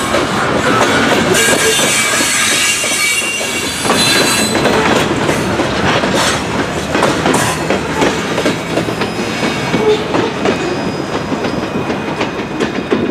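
Loaded grain hopper cars of a freight train rolling past, wheels clacking over rail joints with some high wheel squeal, getting a little quieter near the end.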